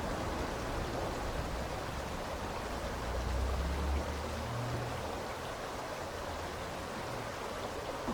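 Steady rush of flowing water from a river or small waterway, with a brief low rumble about three to four seconds in.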